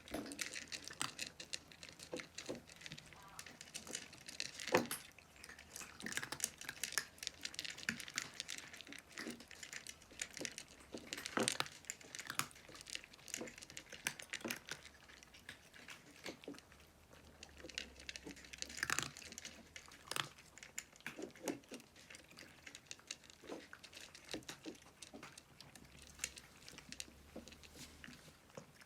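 Cats eating dry kibble: irregular crunching and chewing, with small clicks of pellets.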